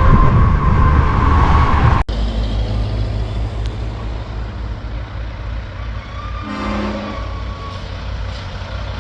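Heavy diesel semi-truck engine running loud, with a steady high whine over the low rumble. An abrupt cut about two seconds in is followed by a steadier, somewhat quieter low engine rumble, with a brief pitched tone a little before the end.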